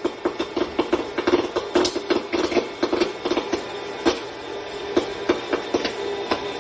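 A steady mechanical hum under rapid, irregular clicking and knocking.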